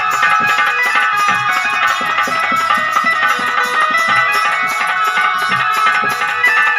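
Instrumental passage of a live Krishna bhajan: a tabla-type hand drum keeps a steady rhythm under a sustained melody instrument, with no singing.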